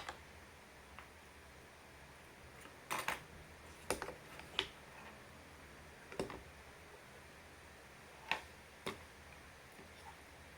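Scattered light clicks and taps of small model airplane kit parts being handled and fitted together, some in quick clusters of two or three, with short gaps between them.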